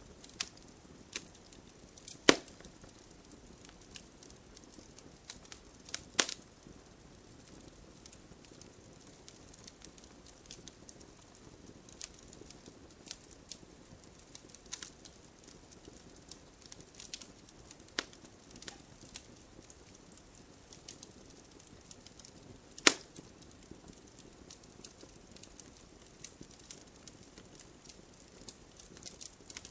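Bonfire crackling, with irregular sharp pops and snaps and three louder cracks: one about two seconds in, one about six seconds in, and one near 23 seconds. Under it is a faint, steady hiss of gentle rain.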